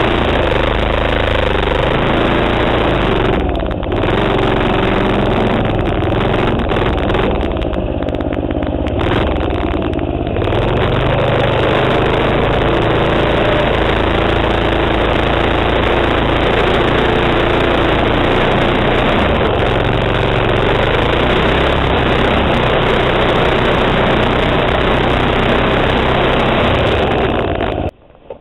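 Manco minibike's 3.5 HP Tecumseh single-cylinder engine running under throttle, its pitch rising and falling as the rider works the throttle, heard close up from a helmet-mounted camera. Near the end the sound drops away abruptly.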